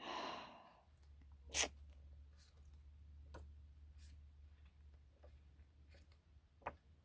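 Pages of a thick magazine being handled: a brief paper rustle, then a sharp tap about a second and a half in and a few fainter handling clicks over a low hum.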